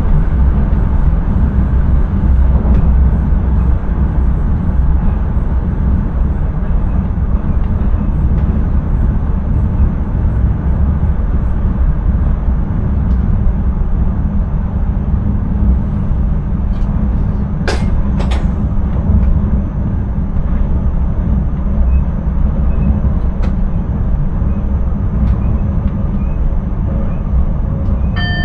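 Dutch intercity train running along the line, heard from inside the driver's cab: a steady low rumble of wheels on rail, with two sharp clicks a little over halfway through and a short tone just at the end.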